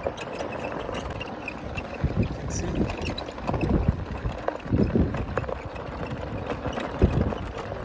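Steady rumble of a ride-on vehicle moving over a rough track, with irregular low thumps and bumps.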